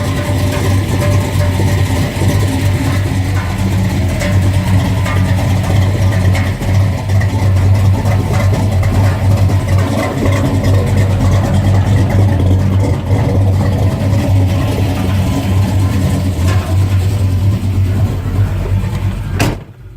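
Engine running steadily at idle, its exhaust note played so that the ignition timing can be judged by ear. Near the end there is a sharp click and the sound drops away.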